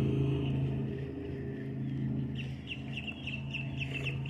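A bird calling in a quick series of short, high chirps, starting about two seconds in, over a steady low motor hum that is loudest at the start.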